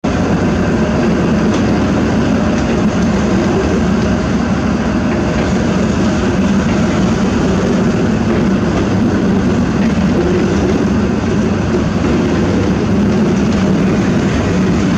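Freight train of hopper wagons rolling slowly past behind a locomotive: a steady low rumble of wheels on rail with a faint hum.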